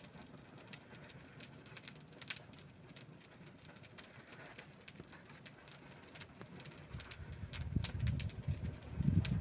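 Wood fire crackling, with irregular sharp pops and snaps. A louder low rumble comes in over the last two seconds or so.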